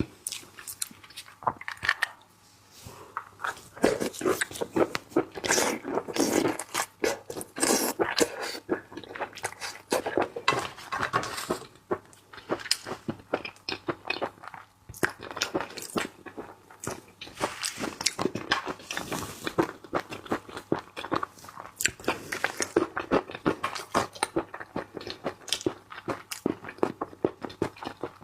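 Close-up mouth sounds of a person biting and chewing raw seafood, a continuous irregular run of wet crunches and clicks.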